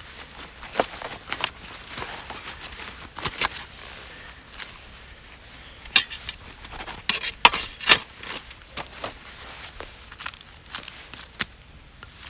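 Camping gear being handled and packed away: irregular sharp clicks, knocks and light rustles, with a cluster of louder clacks about six to eight seconds in.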